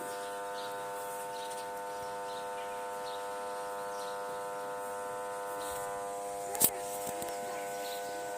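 A steady mechanical buzz that holds one even pitch throughout, with a single sharp knock about six and a half seconds in.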